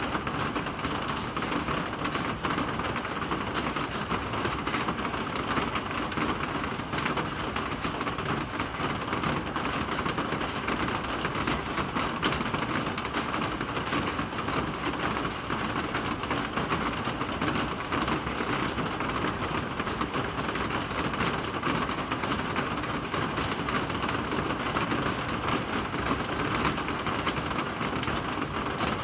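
Steady rain falling, a dense, even patter of drops hitting surfaces.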